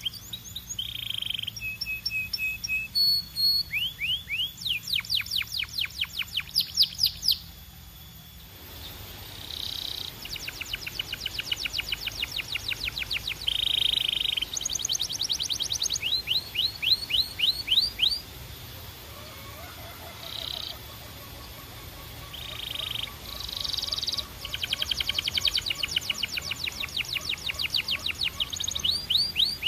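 Belgian canary singing: fast trills of rapidly repeated sweeping notes, mixed with short held tones, in phrases of a few seconds each.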